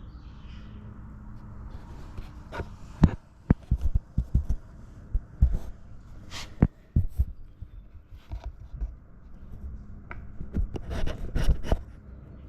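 Scattered sharp knocks and clicks of something being handled, a few at a time, over a low steady hum.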